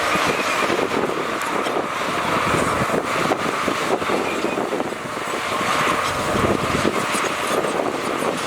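Heavy diesel earthmoving machinery running steadily, with a constant whine through the engine noise.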